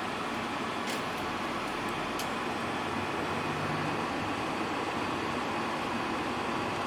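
Steady engine and road noise heard inside the cabin of a moving bus, with two faint light clicks about one and two seconds in.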